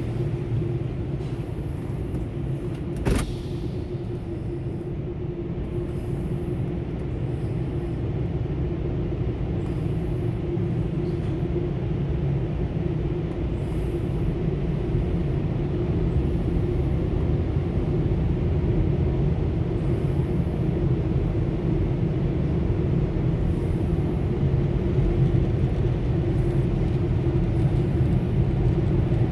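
Steady low rumble with a constant hum from the Ryko SoftGloss Maxx soft-touch car wash machinery, slowly getting louder, with a single sharp click about three seconds in.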